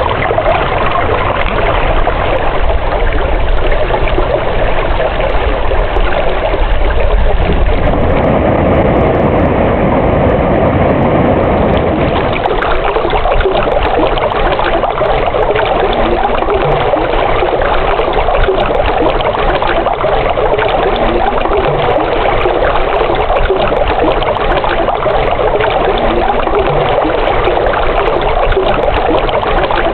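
Running water flowing steadily, a continuous rushing and trickling. A low rumble swells for a few seconds about a third of the way in.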